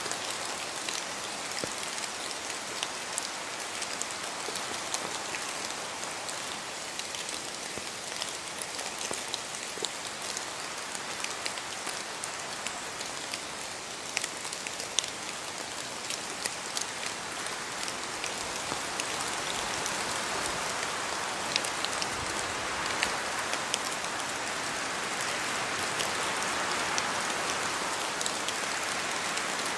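Steady rain falling on forest trees, with many individual drops pattering close by. The rain swells somewhat louder in the second half.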